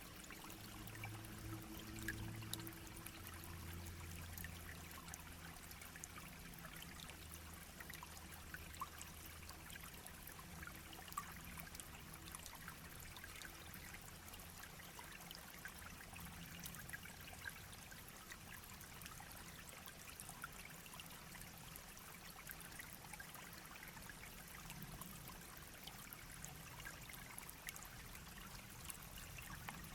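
A small shallow stream babbling and trickling: a steady, fairly quiet wash of running water with many small splashes and droplet ticks.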